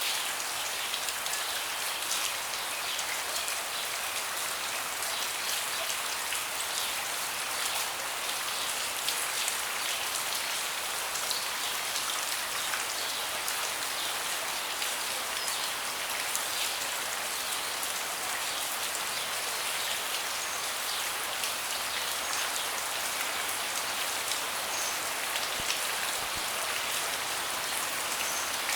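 Steady rain falling on a deck: a dense patter of individual drops over an even hiss, holding constant throughout.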